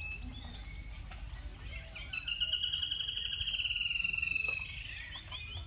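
A bird singing: one long, finely pulsed trill of about two and a half seconds, slowly falling in pitch, starting about two seconds in, then a few short rising chirps near the end. A steady low rumble runs underneath.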